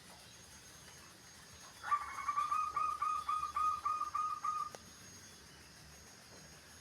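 Zebra dove (perkutut) calling: a run of about ten short, even notes at roughly three or four a second, lasting about three seconds.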